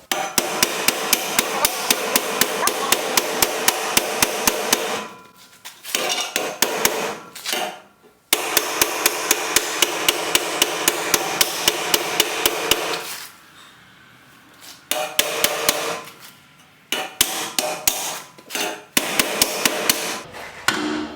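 Hammer beating on metal loading-ramp rungs in fast, steady blows, about four or five a second, in two long runs separated by a few seconds, then more scattered blows in the second half. The rungs are being bent down and rounded over so a lawn tractor's mowing-deck blade shaft no longer catches on them.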